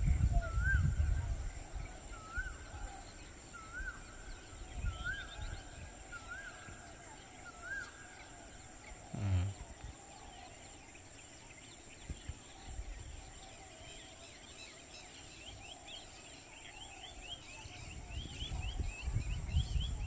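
Wild birds calling: one bird repeats a short rising whistle about every second and a half, six times, then near the end another gives a fast run of high, falling chirps. A single dull thump about nine seconds in, over a faint low rumble.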